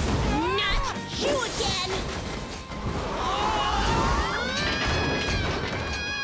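Animated action soundtrack: background music with crash, impact and whoosh sound effects, and pitched sounds that glide up and down.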